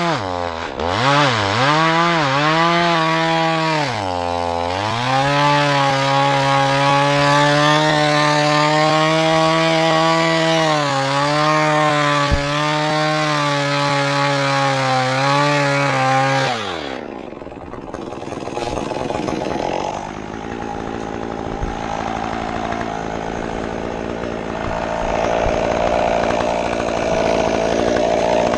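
Stihl chainsaw running at high revs and cutting wood, its pitch dipping twice in the first five seconds and then held steady. About 17 seconds in the high engine note drops away, leaving a quieter, rougher engine sound.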